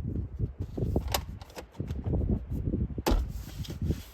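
Irregular plastic clicks and knocks from handling the truck's center console armrest, with two sharp snaps about a second in and about three seconds in.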